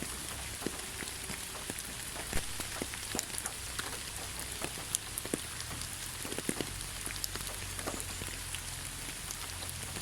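Gentle rain falling on leaves: a steady hiss with scattered individual drops ticking, over a low steady rumble.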